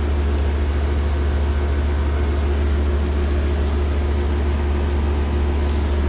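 A 2004 Lennox Merit 4-ton heat pump's outdoor unit running steadily. Its Copeland scroll compressor gives a deep, even hum, and its 1075 RPM four-blade condenser fan rushes a lot of air.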